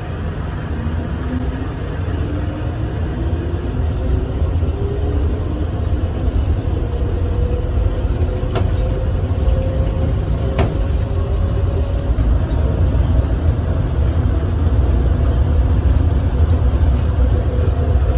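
A vehicle accelerating: a heavy rumble growing steadily louder under a whine that rises smoothly in pitch for about twelve seconds, with a higher whine joining later and two faint clicks midway.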